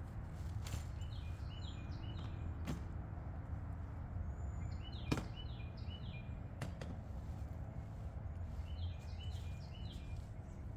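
A songbird singing the same short song of several quick notes three times, about four seconds apart, over a steady low rumble, with a few sharp clicks or knocks in between.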